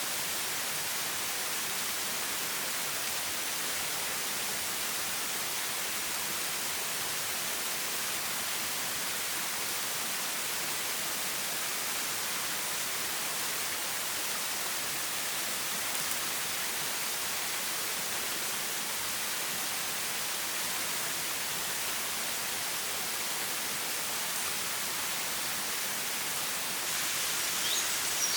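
Flowing stream water rushing as a steady, even hiss. Near the end it grows slightly louder and a bird starts chirping.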